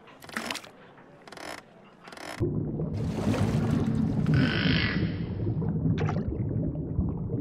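A plastic toy fishing reel cranked in three short bursts. Then, from about two and a half seconds in, a loud, steady low underwater rumble with bubbling, and a brief hiss about halfway through.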